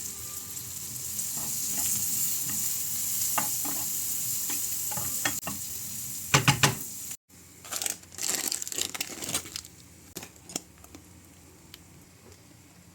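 Food sizzling in a pan as a steady hiss, with light clicks and taps of a utensil. About seven seconds in it cuts off abruptly, and irregular crackling bursts follow before it settles to a faint hiss.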